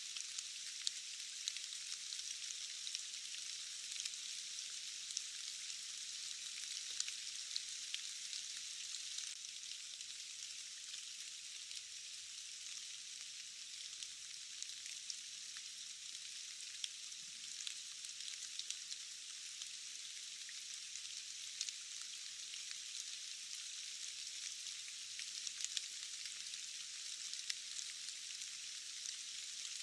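Steady rain hiss with many scattered sharper drop ticks, the sound sitting high with almost no low end.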